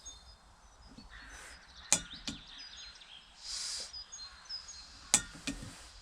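Sharp clicks of a piezo lighter at a portable gas camping stove, two pairs each about a third of a second apart, with a brief hiss of gas between them; the burner does not light. Birds chirp faintly.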